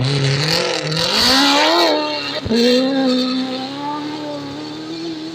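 Off-road rally car engine accelerating, its pitch climbing for about two seconds. A brief cut follows about two and a half seconds in, and then it holds high revs, easing slowly.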